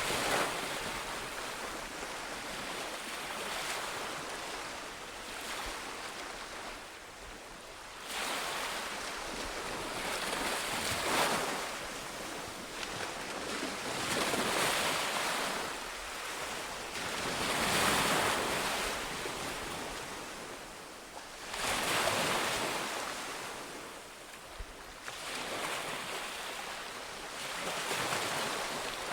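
Ocean surf: waves breaking and washing back, the rush of water swelling and fading in surges every few seconds.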